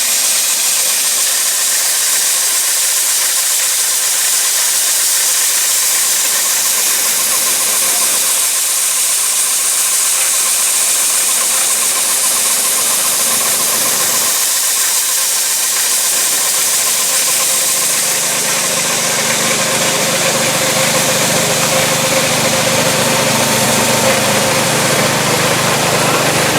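Vintage tractor-powered corn-shelling machinery running steadily with a loud, even mechanical noise; a low engine hum becomes stronger about two-thirds of the way through.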